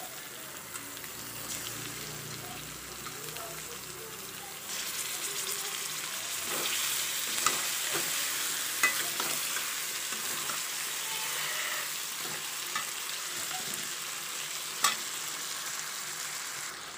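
Marinated chicken pieces sizzling in hot masala in a kadai as a metal spatula stirs them into the spices, with a few sharp knocks and scrapes of the spatula on the pan. The sizzle gets louder about five seconds in.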